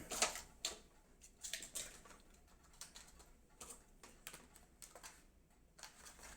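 Faint, irregular light clicks and rustles of small objects being handled, about a dozen scattered through.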